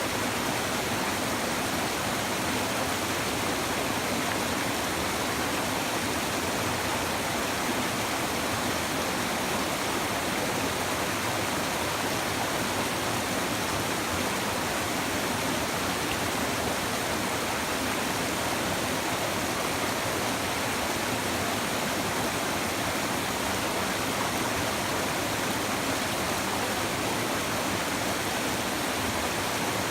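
Shallow river babbling over stones, a steady, even rush of flowing water.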